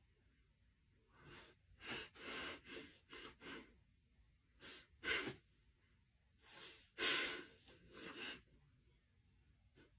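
A run of short, irregular breathy huffs and snorts, about ten in all, the loudest about five and seven seconds in.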